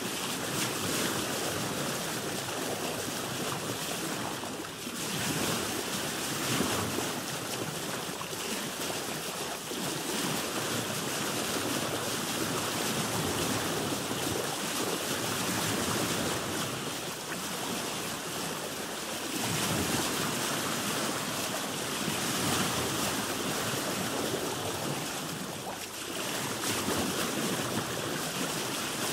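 Ocean waves washing around a boat, with wind: a steady rush of water that swells and eases every few seconds.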